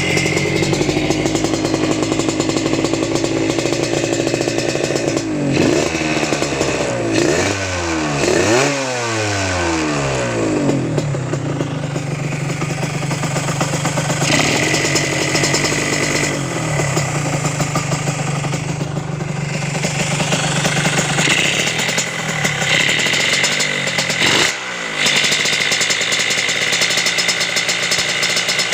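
Motorcycle engine idling through its exhaust, revved up and down several times in quick succession about six to ten seconds in, and blipped briefly twice more later on.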